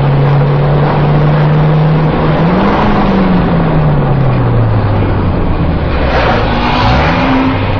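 Car engine running as the car drives, heard from inside the cabin with steady road noise; its pitch rises a little about three seconds in, then falls back lower.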